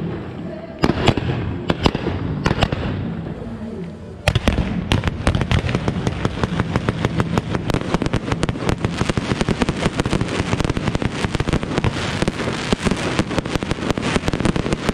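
Consumer fireworks going off: a few separate sharp bangs at first, then from about four seconds in a dense, unbroken crackle of rapid small reports.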